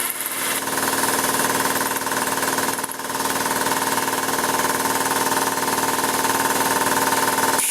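A power tool's motor running steadily with a steady hum. It dips briefly about three seconds in and shifts pitch abruptly near the end.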